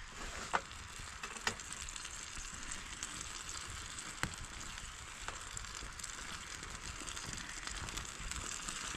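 Gravy simmering and sizzling in a pot while it is being stirred in, with a few sharp clicks of the spoon against the pot.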